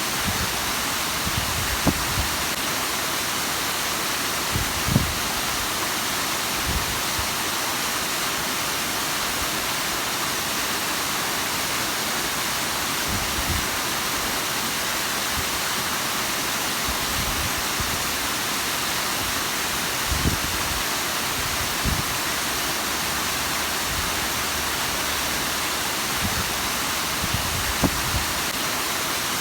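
Bigăr waterfall: water falling and splashing in a steady, even rush with a strong hiss. A few brief low thumps come through it here and there.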